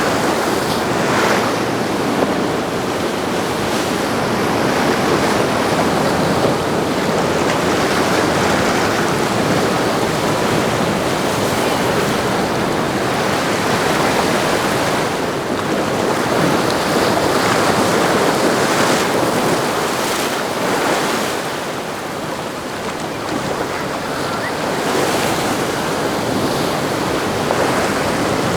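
Waves and surf washing, with gusty wind buffeting the microphone.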